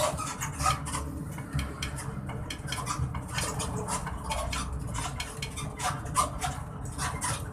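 Hino RK-T bus suspension creaking and squeaking, with irregular short creaks and clicks over the low rumble of the moving bus.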